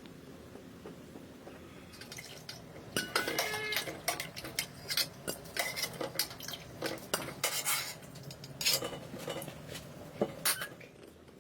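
Cookware and utensils clattering: a run of irregular clinks and knocks of pots, dishes and cutlery, starting about three seconds in and dying away near the end.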